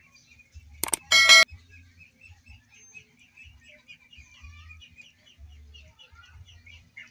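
A click and a short bright chime about a second in, the sound of a subscribe-button animation. After it, small birds chirping quickly and steadily, much quieter than the chime.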